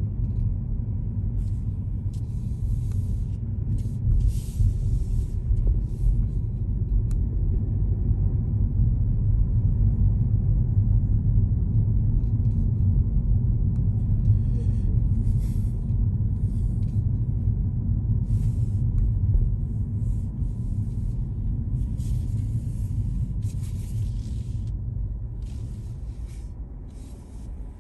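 Steady low rumble of a car on the move, its road and engine noise, with short patches of high hiss now and then. It fades out near the end.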